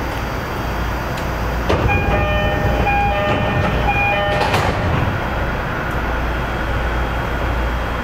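Narita Line train running, a steady rumble of wheels on rail heard from inside the car. About two seconds in, several bell-like tones ring together for roughly three seconds and then stop.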